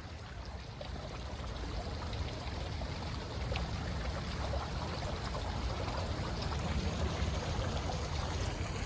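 Steady rushing of running water, growing slowly louder.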